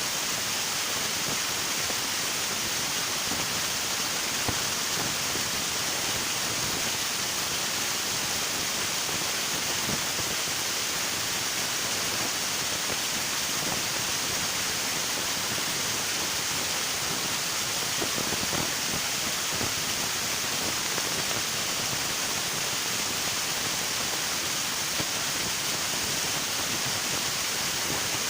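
River water rushing over rocks, a steady, even hiss of flowing water without pauses or changes.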